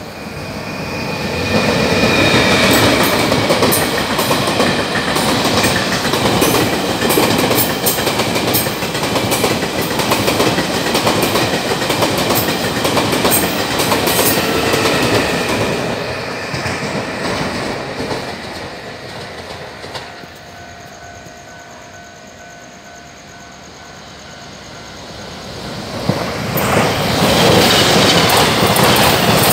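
Two trains passing each other: the first rumbles and clatters past, its wheels clicking over the rail joints, and fades away after about 18 seconds; after a quieter lull with a faint steady tone, the second train comes in loud about 26 seconds in.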